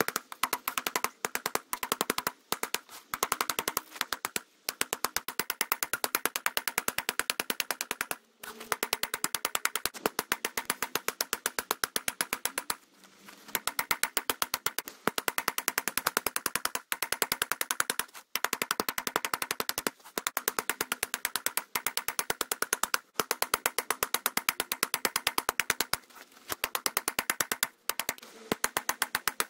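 Rapid, even hammer blows on steel, many a second, with a steady ring. They come in runs broken by short pauses, as when the blade is forged and turned.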